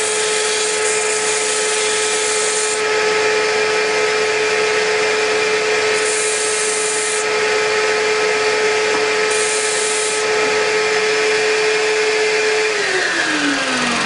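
Disc sander running with a steady whine, the hiss of wooden drawer parts being pressed against the abrasive disc coming and going three times. Near the end the motor is switched off and its whine falls in pitch as the disc winds down.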